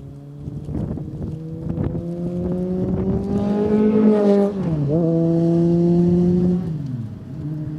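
BMW K1300S inline-four motorcycle with a REMUS Hexacone titanium slip-on exhaust in a drive-by: the engine note climbs slowly in pitch and grows louder, dips briefly about five seconds in, holds steady, then falls in pitch near the end.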